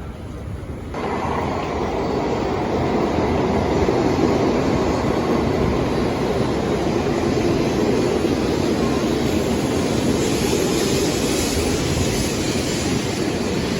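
Tokaido Shinkansen train running at speed: a loud, steady rushing noise that sets in abruptly about a second in and holds.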